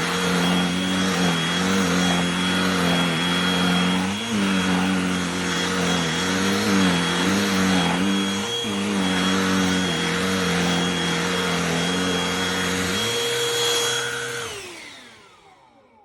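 Cordless handheld vacuum running, its motor note dipping and wavering now and then as it is worked over a surface. Near the end it is switched off and the motor winds down with a falling whine into silence.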